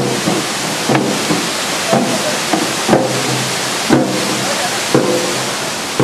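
Steady rush of a waterfall under a ritual beat: a sharp strike about once a second, each followed by a short pitched tone, like a shaman's drum with a chanting voice.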